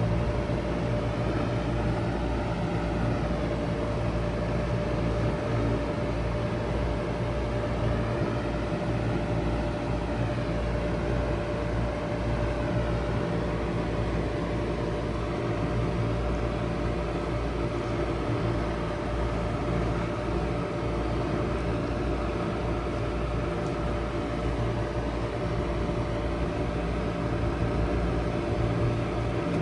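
2001 Bard 5-ton wall-hung heat pump running in cooling mode: a steady mechanical hum with a low drone and a constant mid-pitched tone.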